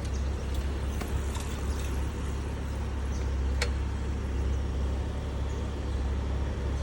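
A car engine running with a steady low rumble amid street noise, and one sharp click about three and a half seconds in.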